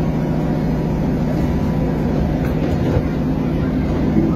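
Passenger train running, heard inside the carriage: a steady rumble with a constant low hum.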